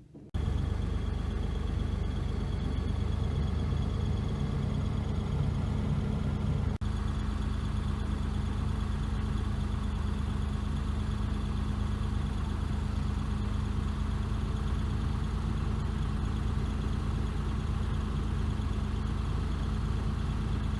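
1980 Land Rover Series III engine running steadily. It cuts in abruptly at the start, with a brief break about seven seconds in.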